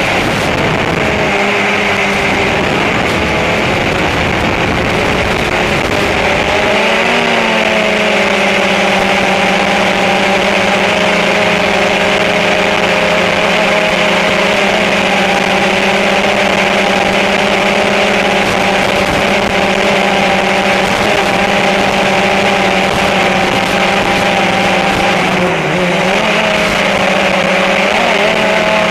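Small drone's electric motors and propellers running with a steady whine. The pitch steps up about seven seconds in and holds, dipping briefly near the end.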